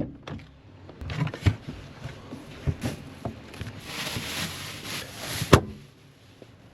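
Ingredients and gear being rummaged and handled: scattered knocks and clunks, a rustling stretch about four seconds in, then a sharp bang about five and a half seconds in.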